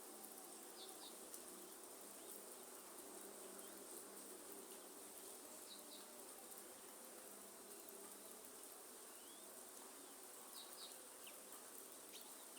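Faint rainforest ambience: a steady insect buzz and high insect drone over a soft hiss of light rain, with a few short, high bird chirps scattered through it.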